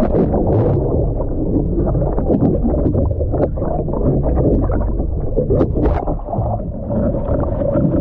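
Wind buffeting the microphone over splashing, churning seawater, loud and continuous with irregular splashes.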